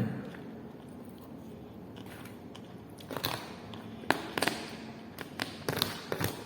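A person eating nasi ayam penyet, fried chicken with rice, close to the microphone: biting and chewing, with a run of sharp crunchy clicks from about three seconds in.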